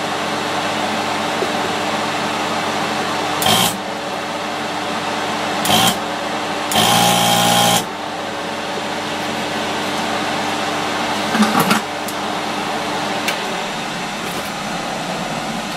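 Desoldering tool running with a steady whirr, its vacuum pump buzzing in three short bursts, the last and longest lasting about a second, as solder is sucked off the cell tags of a lithium-ion battery pack. A few light clicks come near the middle.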